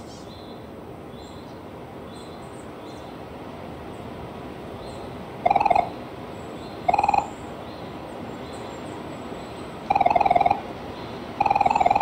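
An animal calling: four short pitched calls, each under a second, coming at irregular intervals over a steady background hiss.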